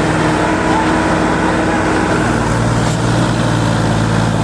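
Tractor diesel engine running steadily, its note shifting slightly about two and a half seconds in.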